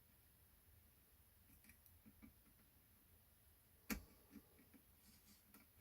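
Near silence, broken by a few faint small clicks and one sharper click about four seconds in, as a small tool works at the plastic parts inside the radio's headphone socket.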